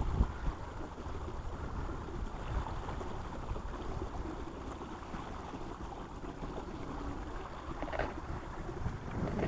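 Wind on the microphone and water rushing around a kayak on a river, a steady low noise with one brief louder rush about eight seconds in.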